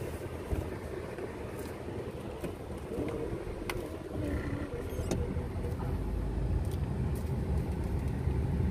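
Motor vehicle running, heard from inside: a steady low rumble of engine and road noise, with a few faint clicks and a slight swell in the low rumble about six seconds in.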